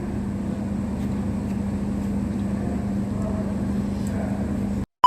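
Steady low hum and rumble of a vehicle's cabin with the engine running, cutting off abruptly just before the end.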